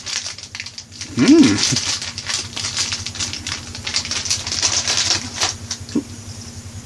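Close-up chewing of a sour apple licorice twist: rapid wet mouth clicks and smacks, with a short hummed "mmm" about a second in.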